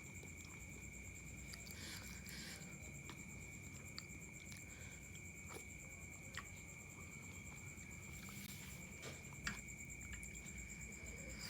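Crickets chirring steadily in the background, a continuous high trill. Over it come scattered small clicks and smacks of someone chewing noodles.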